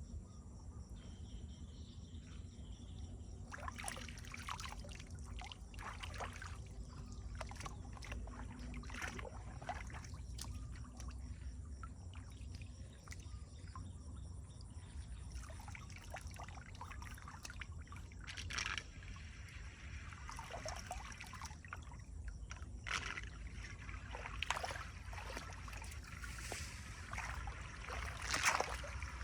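Water splashing and sloshing in irregular strokes, with a few louder splashes near the end, over a steady low rumble.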